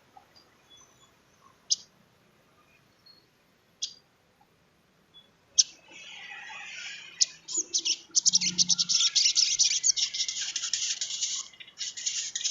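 Sunbird (sogon trotol) calling: a few single sharp, high chips spaced about two seconds apart, then from about seven seconds in a fast, dense, high-pitched twittering chatter.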